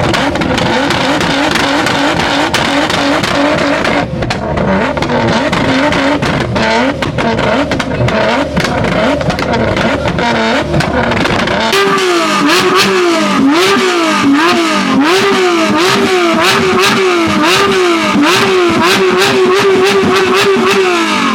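Loud performance car engine being revved by a driver standing by at a car meet. Through the first half it runs rough with sharp cracks. From about halfway it is blipped up and down a little more than once a second, then held high and let fall at the very end.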